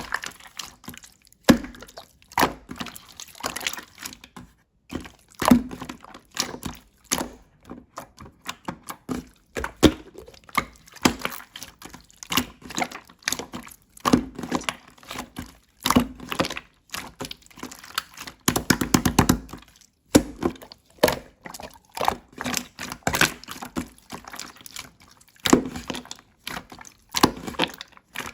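Hands squishing, poking and stretching slime, giving irregular sticky squelches, clicks and small pops, with a denser run of squelching about two-thirds of the way through.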